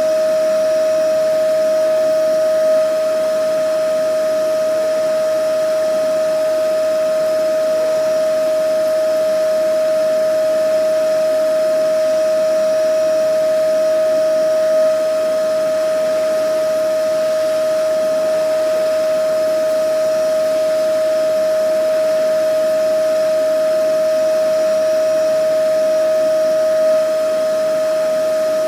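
Vacuum cleaner running continuously at an even speed: a steady motor whine held on one pitch over a constant rush of air.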